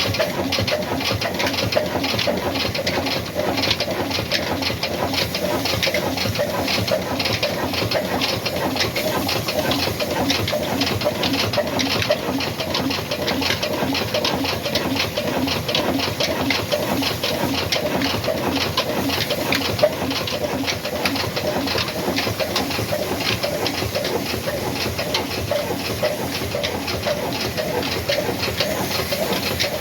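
Old black Ruston diesel engine running steadily, with a rapid, even mechanical ticking.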